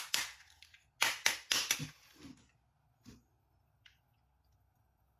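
Sharp plastic clacks and knocks of toy vehicles being handled and set down: a quick cluster of strikes about a second in, then a couple of fainter taps.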